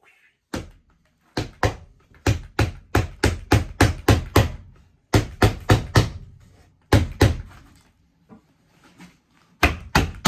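Hammer blows in quick runs of several strikes, about three to four a second, with short pauses between the runs.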